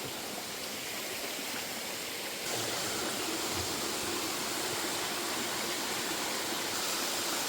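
Steady rush of running water from a rainforest stream, growing louder about two and a half seconds in.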